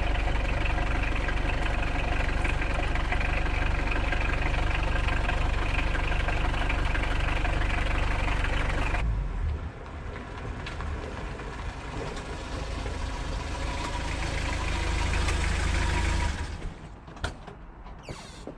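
Car engine running steadily, in two separate takes with a sudden change about halfway through. Near the end it drops away and a few sharp clicks are heard.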